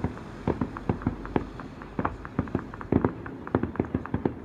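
Fireworks display going off: a quick, irregular run of bangs and pops, several a second, with a loudest cluster about three seconds in.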